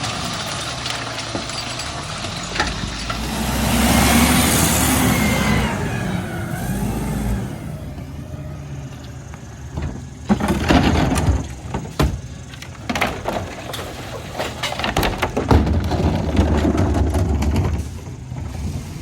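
Rear-load garbage truck packing: the engine revs up under the hydraulic packer with a hissing rush for a few seconds, then a series of clanks and knocks as the packer and trash bang in the hopper.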